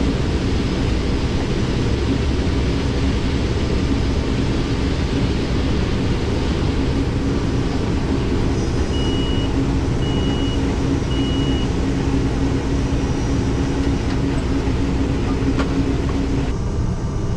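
Combine harvester running steadily under load while harvesting corn, with a steady hum under the machine noise. Three short electronic beeps sound about nine to twelve seconds in, and near the end the higher, hissy part of the noise drops away.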